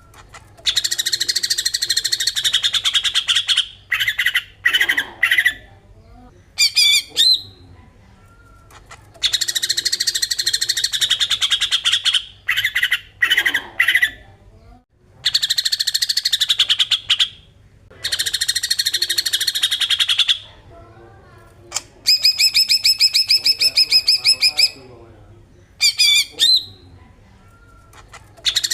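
Green leafbird (cucak ijo) singing its harsh, rapid-fire 'besetan' song. It comes in bursts of fast rattling notes, each lasting one to three seconds, with short pauses between them. Near the end comes a clearer, more whistled run of evenly repeated notes.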